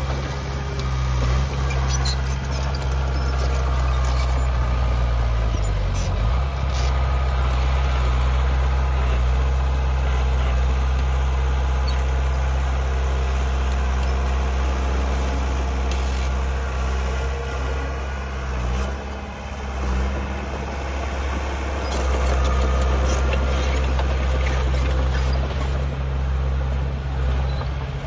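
Diesel engine of heavy earthmoving machinery running steadily. Its pitch drops briefly about six seconds in, and there are a few light clanks.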